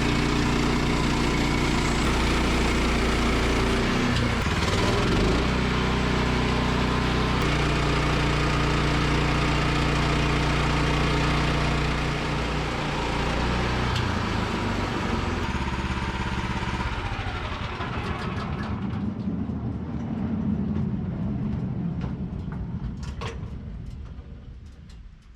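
Woodland Mills band sawmill's gas engine running steadily, its pitch shifting a few times, then winding down and fading away over the last several seconds, with a few sharp clicks near the end.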